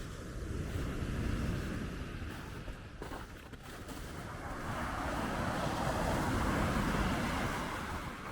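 Baltic Sea surf washing onto the shore, with wind; the rush of the waves swells louder from about five to seven seconds in.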